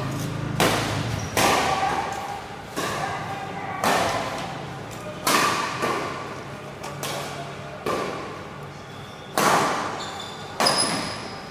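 Badminton rally: rackets striking the shuttlecock in sharp, echoing cracks about every second or so, around eight hits, in a large sports hall.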